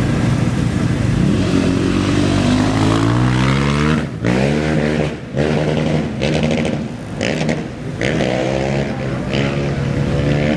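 An off-road race engine accelerating hard away from the start line. Its pitch climbs, falls sharply about four seconds in, then climbs and falls again several times as it shifts up through the gears.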